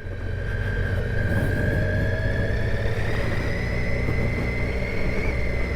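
Triumph Tiger 800 XCa's three-cylinder engine running steadily under a light throttle on a muddy trail, with a high whine that rises slowly in pitch.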